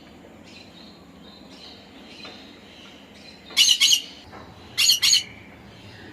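Pet conure squawking: two quick pairs of loud, shrill squawks about halfway through, a second apart, with fainter short chirps in between.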